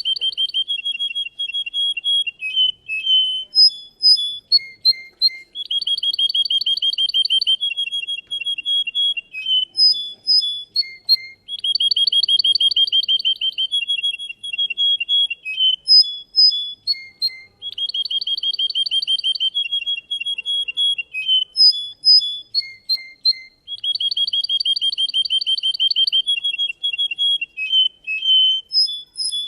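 Russian canary singing: long, fast rolling trills broken by short sharp chip notes, the same phrase coming round about every six seconds.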